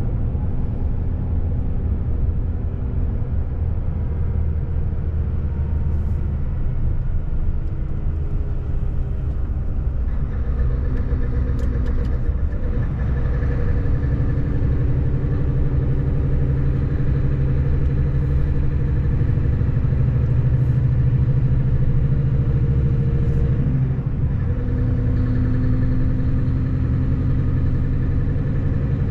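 Scania 770S truck's 16-litre V8 diesel engine running while driving, a steady deep drone whose pitch shifts about ten seconds in and again near the end.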